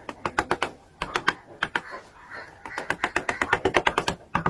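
Rapid runs of sharp taps on wood, about eight a second, from hand wood carving, broken by short pauses.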